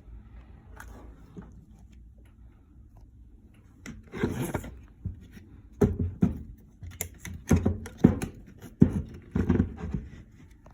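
A series of irregular knocks and clattering rattles, like hard objects being handled and set down, starting about four seconds in and ending near the end.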